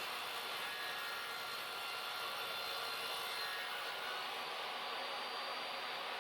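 DeWalt table saw running and cutting through wood, a steady noise with a faint whine.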